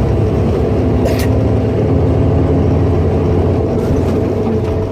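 Semi truck's diesel engine running steadily, heard from inside the cab, with a single sharp click about a second in.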